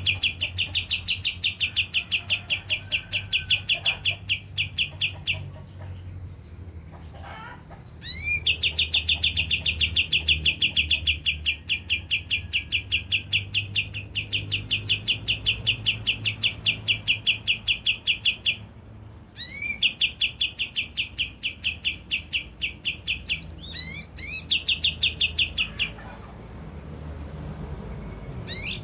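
White-shouldered triller (kapas tembak) singing long, rapid, evenly repeated trills, each several seconds long and opened by a few rising upswept notes, with short pauses between them. A steady low hum runs underneath.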